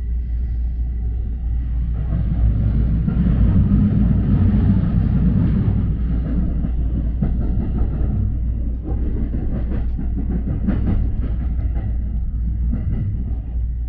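Train running along the track: a steady low rumble that grows louder a couple of seconds in, with faint clacks later on.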